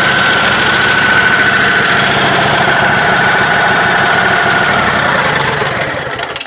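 Lifted, modified riding-mower engine idling steadily, then shut off at the very end. The owner suspects it is getting a little too much fuel, which he blames for its backfiring.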